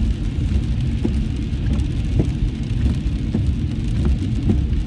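Steady rain and road noise inside a moving car: a low rumble of tyres on the wet road under a hiss of rain on the car, with a few small scattered taps.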